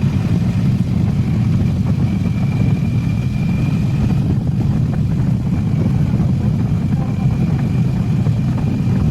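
Motorcycle on the move: a steady, loud low rumble of the running bike, unchanging throughout.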